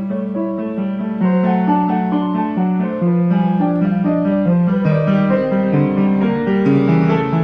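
Steinway XR Duo-Art reproducing piano playing a music roll on its own: a run of melody notes over held chords, keys played by the pneumatic player mechanism.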